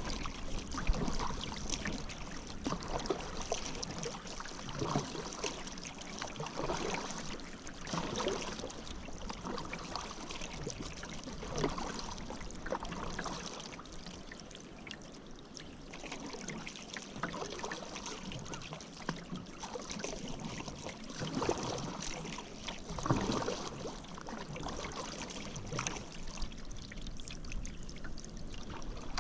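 Paddle strokes dipping and splashing in river water, regular and roughly one every one and a half to two seconds, with water trickling off the blade between strokes.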